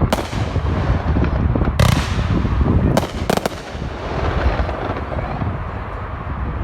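Fireworks going off: sharp bangs near the start and about two seconds in, then a quick cluster of three around three seconds in, over a continuous low rumble that carries on after the bangs stop.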